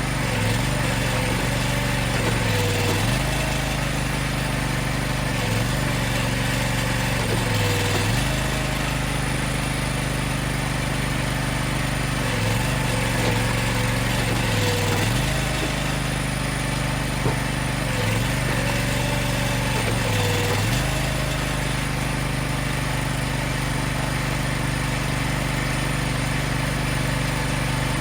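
Engine of a hydraulic log splitter running steadily. Its pitch dips briefly about six times and then recovers, as the engine takes the load of a split.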